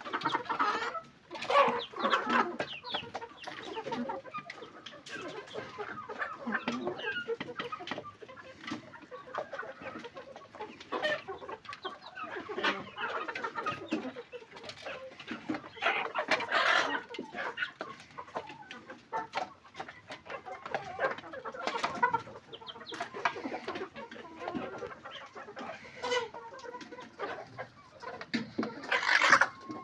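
A flock of chickens clucking, with many short calls overlapping irregularly and a louder call near the end.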